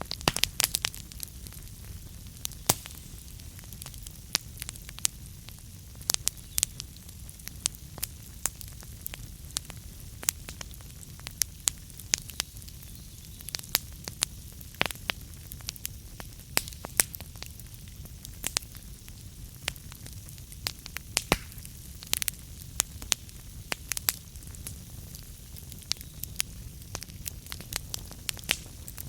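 Wood fire burning in a fireplace, the logs crackling with frequent, irregular sharp pops over a steady low rumble of the flames.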